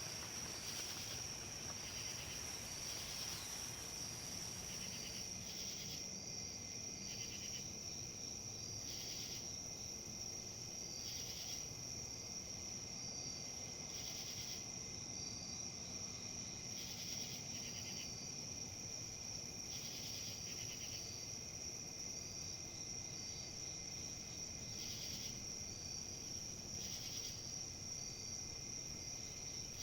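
Insects trilling steadily at a high pitch, joined by a second, pulsing insect chirp that repeats about every two seconds.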